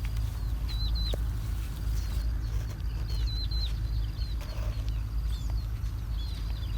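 Small birds chirping: short, high, hooked notes in quick clusters, repeated every second or so, over a steady low rumble that sets in suddenly at the start.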